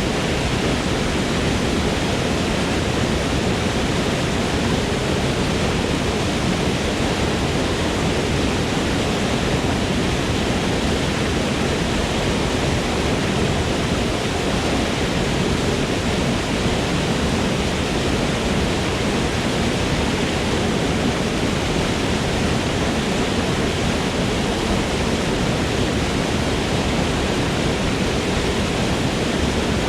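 Waterfall in a forest: water falling and rushing in a steady, even roar without change.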